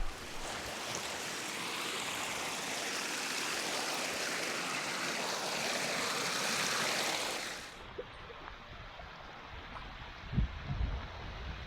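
Steady rushing of a fast moorland beck's water and falls, which cuts off suddenly about eight seconds in to a quieter hiss with a few low rumbles near the end.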